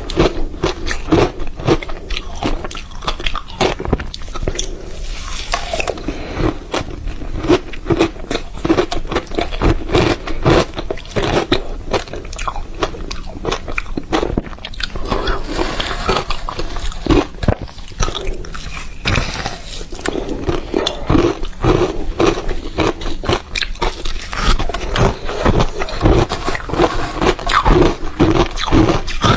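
Ice being bitten and chewed close to the microphone: a dense, unbroken run of sharp crunches and cracks.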